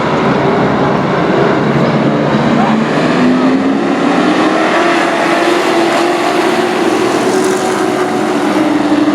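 Race truck engines running hard on a short oval, their pitch climbing steadily over several seconds and then easing slightly near the end.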